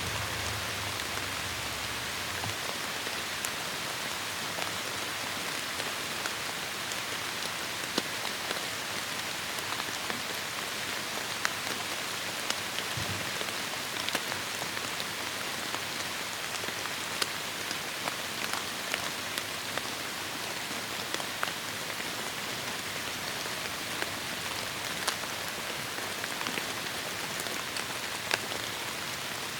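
Heavy rain falling steadily in a forest, a dense even hiss with many individual drops ticking sharply on leaves and surfaces.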